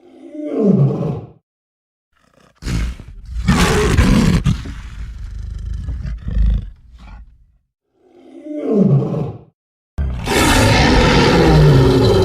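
Lion roars and growls given as separate calls with silent gaps between them: a short growl falling in pitch, a longer roar, the same falling growl again, then a sustained roar starting about ten seconds in.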